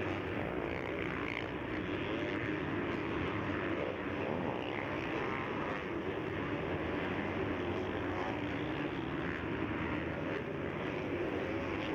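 Motocross bikes racing around the track, several engines revving up and down and overlapping in a steady din.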